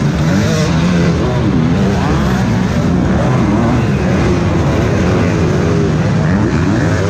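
Several MX2 motocross bikes racing together on a dirt track, their engines revving up and down in overlapping rising and falling pitches.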